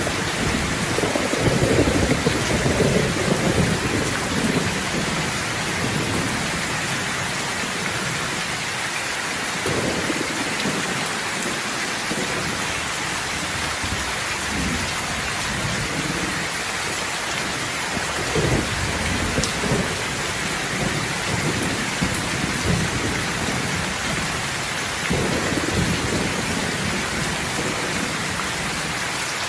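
Steady rain with thunder rumbling several times: the strongest roll in the first few seconds, and others about a third of the way in, past the middle and near the end.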